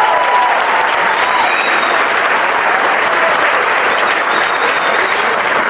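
Audience applauding loudly and steadily, with a held note of the closing music fading out about half a second in.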